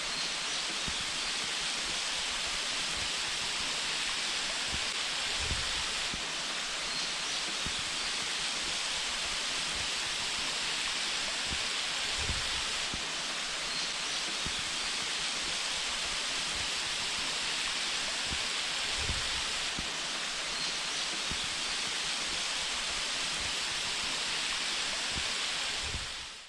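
Waterfall rushing steadily, an even roar of falling water with a few soft low thumps, cutting off suddenly at the end.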